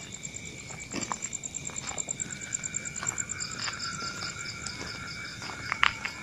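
Night insect chorus, crickets and the like: several steady shrill tones, with a high, rapidly pulsing trill for the first half and a second pulsing trill in the middle. Footsteps knock irregularly underneath, the sharpest just before the end.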